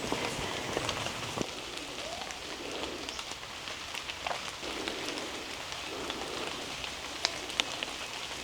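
Steady rain falling through rainforest foliage, with scattered sharp drips close by.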